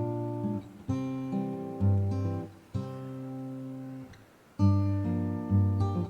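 Background music of acoustic guitar chords, each struck sharply and left to ring, a new chord about every second.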